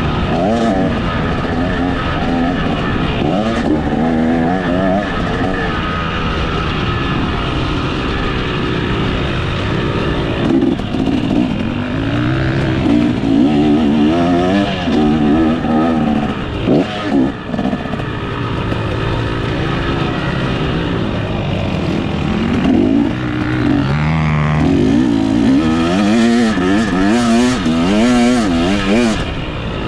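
Motocross dirt bike engine revving hard and backing off again and again, its pitch rising and falling over and over.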